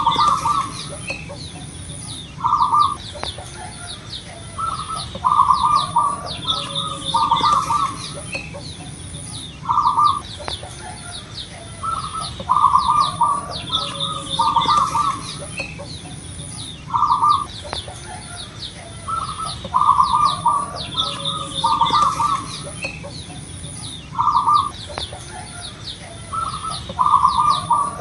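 Zebra dove (perkutut) cooing: short phrases of quick staccato coo notes, repeated every two to three seconds, with higher chirps in the background.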